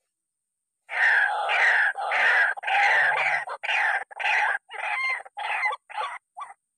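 White-breasted waterhen (ruak-ruak) giving its harsh croaking call over and over in a series, starting about a second in. The calls grow shorter and quicker toward the end.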